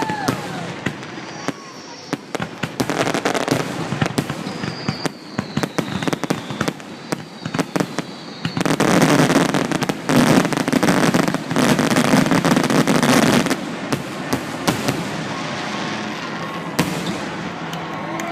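Fireworks finale: a string of bangs and crackles, building to a dense, loud barrage for about five seconds midway, then thinning out.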